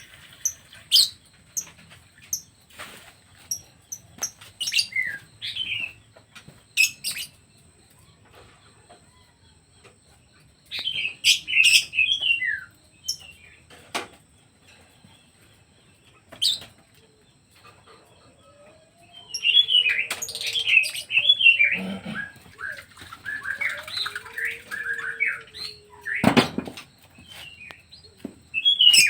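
Pet birds chirping in short, quick calls that come in bursts, with sharp clicks and fluttering between them and one loud knock near the end.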